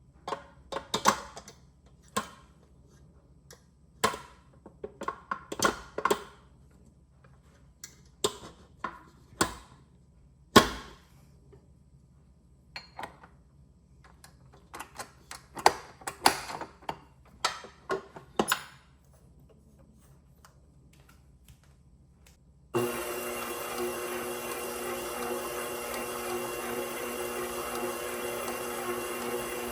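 Scattered clicks and clunks of the mixer's attachments being handled and the spiral dough hook being fitted. About 23 s in, the KitchenAid Professional 6000 HD stand mixer's DC motor starts and runs steadily with a layered motor-and-gear hum as the spiral hook kneads bread dough.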